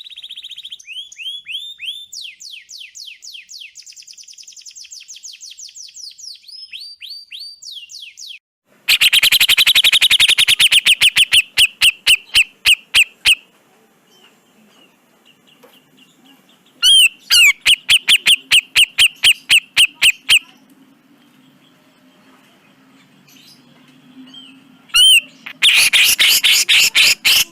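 Grey-cheeked bulbul (cucak jenggot) calling: first a run of quieter, quick whistled notes sweeping up and down, then three loud bursts of rapid, evenly repeated harsh notes.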